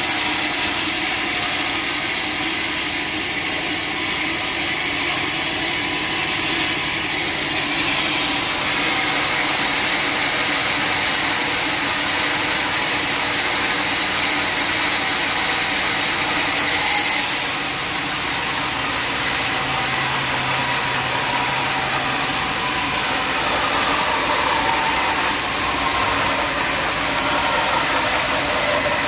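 Sawmill machinery running steadily: an engine-driven saw with a constant engine tone under a wide, even noise.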